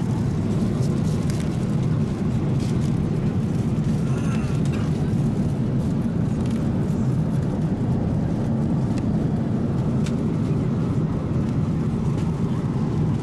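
Steady cabin roar inside a Boeing 787-8 at cruise: the airflow and engine noise from its two General Electric engines, a constant low rumble with a few faint clicks.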